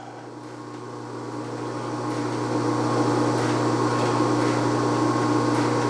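Steady mechanical hum with a low fixed drone, growing gradually louder over the first couple of seconds and then holding level.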